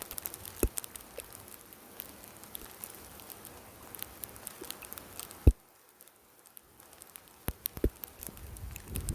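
Graupel pellets pattering down, a steady scatter of small sharp ticks, with one louder knock about five and a half seconds in, after which it goes quieter for a second or two before the ticks return.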